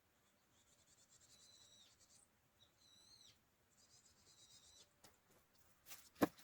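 Faint, high chirping calls of a small bird, repeated in three short trilled bouts, followed near the end by a few clicks and one sharp knock.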